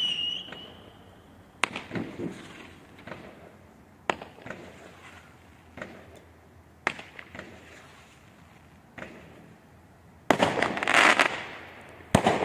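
Fireworks going off: the tail of a falling whistle fades just at the start, then four single sharp bangs come a few seconds apart, each with a short crackle after it. About ten seconds in, a loud dense volley of crackling bangs begins.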